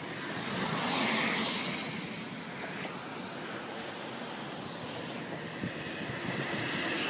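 A car driving past on a wet street, its tyres hissing through standing water. The hiss swells to its loudest about a second in and then eases to a steady wet hiss.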